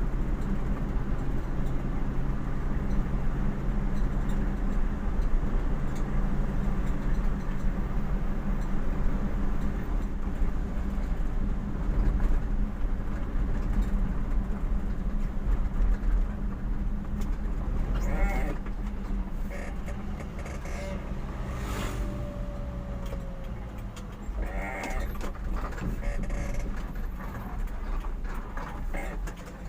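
Engine and road noise of a vehicle on the move: a steady low drone that eases off about two-thirds of the way through. A few short pitched calls come in over it near the end.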